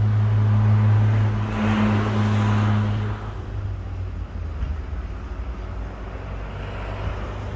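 A motor vehicle running with a steady low hum and a rush of noise that swells about two seconds in. The hum drops away about three seconds in, leaving a quieter low rumble.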